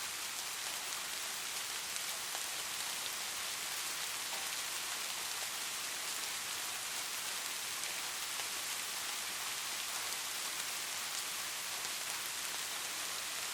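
Light rain falling steadily, an even hiss with faint pattering drops.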